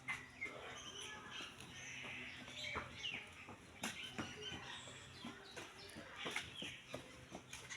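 Birds chirping in short, scattered calls, with occasional sharp clicks and knocks.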